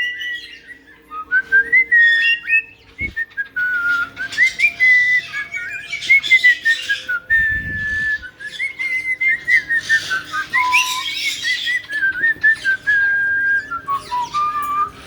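Caique parrots whistling: a nearly unbroken string of short gliding whistle notes and a few held tones, mixed with scratchy chatter. A single click sounds about three seconds in.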